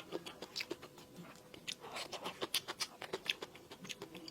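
Close-miked eating: a person chewing and biting, with many irregular wet clicks and smacks.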